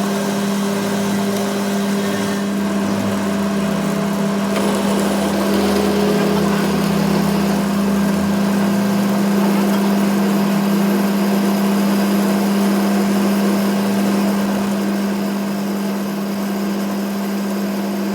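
A workshop machine running steadily, a constant hum under a spread of mechanical noise.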